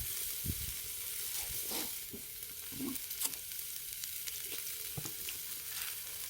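Pork neck sizzling on a grill over a charcoal brazier: a steady hiss with scattered pops and crackles from the fatty meat, and a few short knocks.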